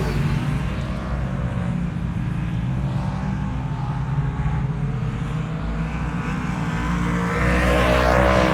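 A car engine running steadily, growing louder near the end with a sweep in pitch.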